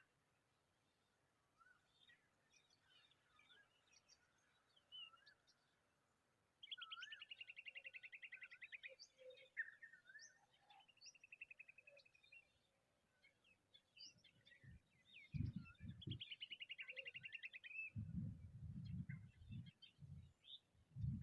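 Birds chirping, with a fast trill that falls slightly in pitch, heard three times. Low rumbling bumps come in over the last few seconds.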